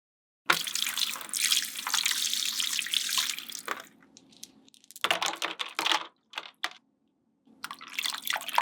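Water running and splashing into a small tank: one pour of about three seconds, then shorter splashes.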